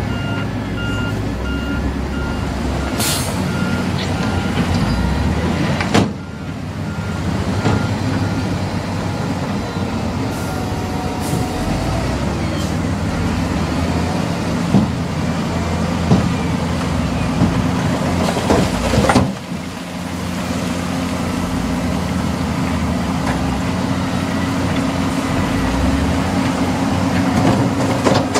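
Heavy diesel construction machinery running steadily, with a truck's reversing alarm beeping for the first few seconds and then stopping. Two sharp bursts cut through, about six seconds in and again near the nineteen-second mark.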